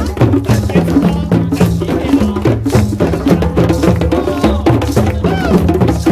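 A group of African hand drums, djembes, played together in a fast, dense rhythm of sharp strikes. Low drum tones repeat in a steady pattern underneath.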